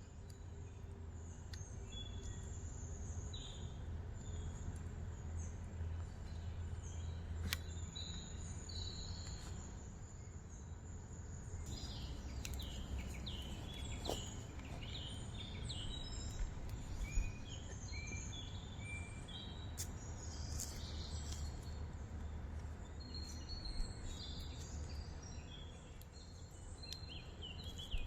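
Wild birds chirping and calling in short quick notes, busiest in the second half, over a steady low rumble, with an occasional sharp click.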